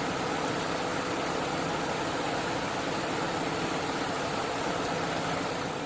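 An engine running steadily, a constant drone with no changes in pitch.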